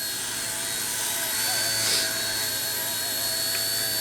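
Small four-channel single-rotor electric RC helicopter with brushed motors running: a steady high motor whine over a low rotor hum that grows a little louder about a second and a half in.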